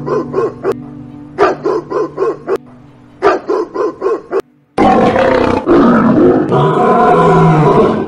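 A small dog barking in quick runs of four or five short, yappy barks, about four a second. About four and a half seconds in it cuts to a lion's loud, rough roar lasting about three seconds.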